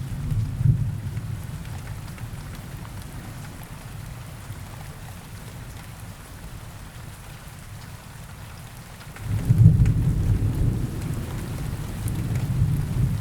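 Steady rain falling in a forest, with rolling thunder: a low rumble dies away over the first couple of seconds, then a louder rumble swells suddenly about nine seconds in and rolls on.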